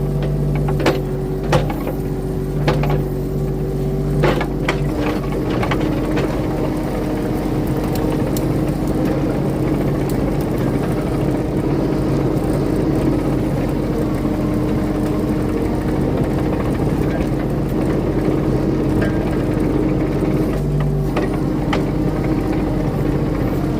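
Diesel engine of a compact earthmoving machine running steadily under work, with a few sharp clanks in the first seconds. The engine note shifts about five seconds in.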